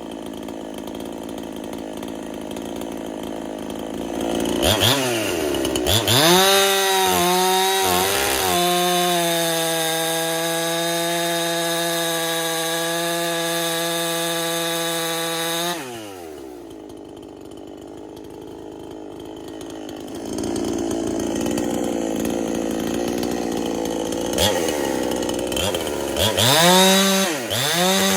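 Husqvarna clone chainsaw's two-stroke engine revved in a few quick blips, then held at full revs for about seven seconds. It drops suddenly to idle, rises again about four seconds later, and is blipped and revved once more near the end.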